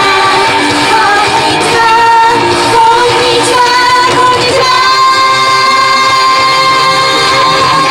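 Female vocal idol group singing an upbeat J-pop song live over a loud backing track, with a long held note in the second half.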